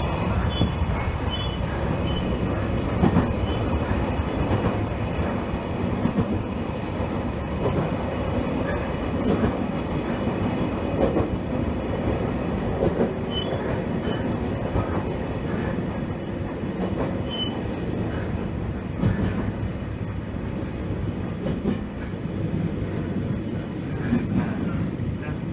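Train running along the line, heard from inside, a steady rumble of wheels on rail with occasional clicks over the joints.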